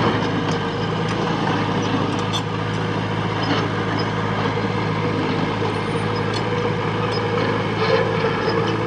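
Heavy diesel engine of a construction machine running steadily, with a few faint light knocks over it.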